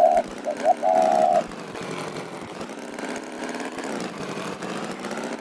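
Cartoon sound-effect engine of an animated farm tractor running steadily. For about the first second and a half there is also a held high tone, briefly broken by a few short blips.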